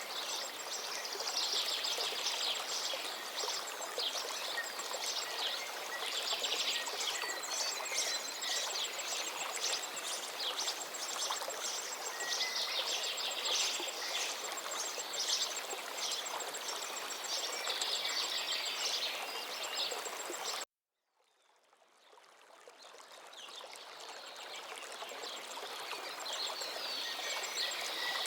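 Steady rush of a flowing forest river, with songbirds singing over it. About two-thirds of the way through, the sound cuts out abruptly to silence, then fades back up over a few seconds.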